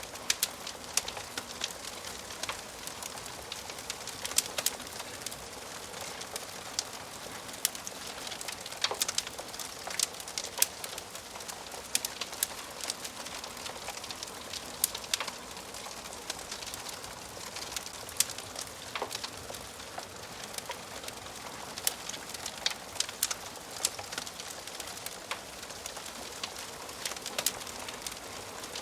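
Wood fire crackling in a fireplace: frequent sharp snaps and pops at irregular intervals over a steady hiss.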